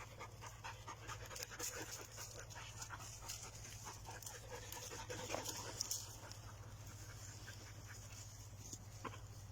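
A dog panting: a run of quick, short breaths.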